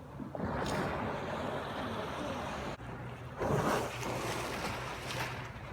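Water washing against boat hulls with wind on the microphone, over a steady low boat-engine hum. A louder rush of noise comes about three and a half seconds in.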